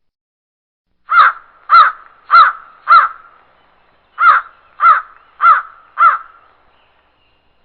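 Crow cawing: two series of four harsh caws, the first starting about a second in and the second after a short pause.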